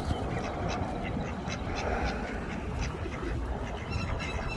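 Ducks quacking.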